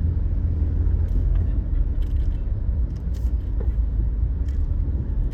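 Car moving in traffic, heard from inside the cabin: a steady low engine and road rumble, with a few faint short clicks along the way.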